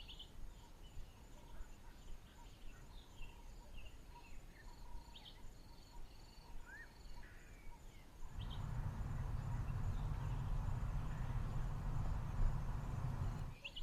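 Bushveld ambience: insects trilling steadily on two high tones, with scattered short bird chirps and calls. About eight seconds in, a louder, steady low rumbling noise takes over, and it cuts off suddenly near the end.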